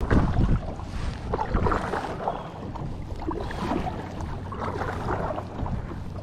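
Wind rumbling on the microphone with water sounds and small scattered knocks around a fishing kayak on a lake.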